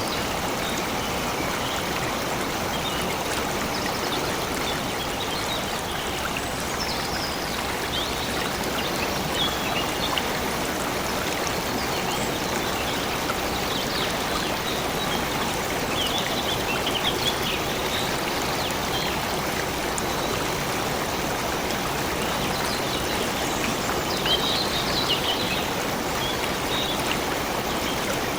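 A stream of water flowing steadily, with short high bird chirps now and then, clustered most around the middle and near the end.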